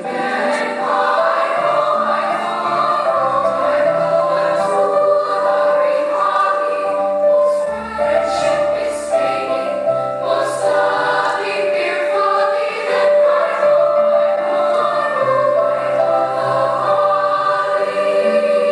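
School symphonic choir singing in harmony, holding sustained chords that change every second or two.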